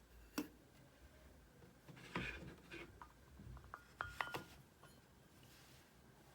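Quiet kitchen handling: a few light knocks, with a short ringing clink of dishware about four seconds in.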